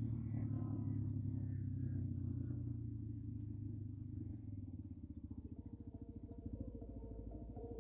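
Quad bike (ATV) engine running at low revs, dropping back to an even, pulsing idle about halfway through.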